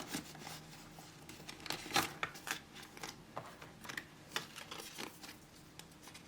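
Paper banknotes and cash wallets being handled: scattered soft rustles and small clicks and taps, the loudest about two seconds in.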